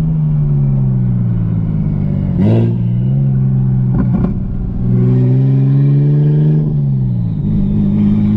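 BMW 335i's big-single-turbo N54 straight-six pulling hard. Its pitch drops at a gear change about two and a half seconds in, then climbs again. A couple of sharp cracks come near the middle, and the pitch falls away near the end before settling steady.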